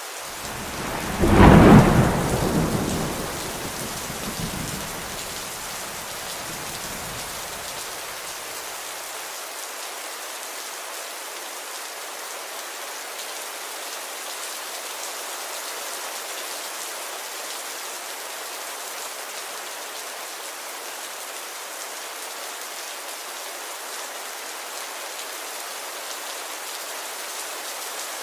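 Steady rain falling, with a loud clap of thunder about a second in that rolls and rumbles away over the next several seconds.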